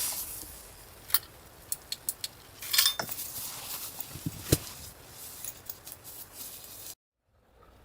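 A handful of sharp, separate clinks and knocks of hard objects, about seven in the first five seconds, over a low steady background; the sound cuts off abruptly near the end.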